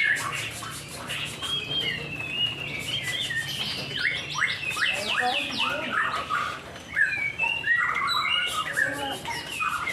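White-rumped shamas singing, several birds at once: a dense, varied song of whistled phrases and trills, with quick runs of sharply falling notes.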